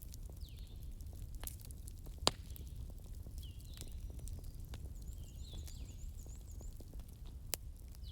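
Wood fire crackling: irregular sharp snaps and pops over a low steady rumble, the loudest pop a little past two seconds in and another near the end. Faint high chirps sound several times in the background.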